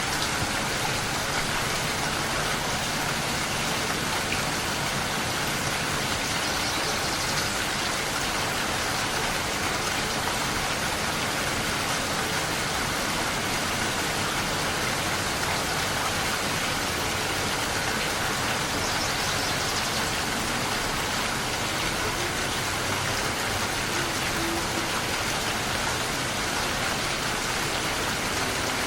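Steady, dense rain falling, an even hiss that begins abruptly and holds unchanged.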